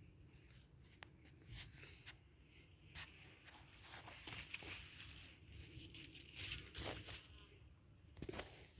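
Faint rustling and crinkling with scattered light clicks, busier in the second half.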